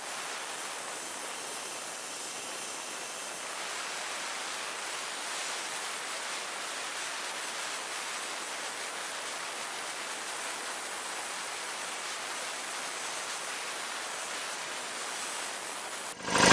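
Steady hiss, then near the end a Craftsman air compressor's motor and pump kick on suddenly and run loudly, cutting back in as tank pressure falls to about 125 psi.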